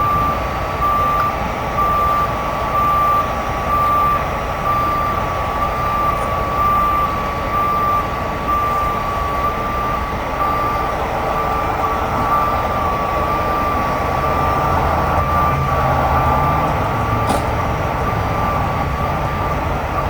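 A truck's backup alarm beeping steadily over the low, continuous running of a heavy truck's diesel engine, which works a little harder near the end.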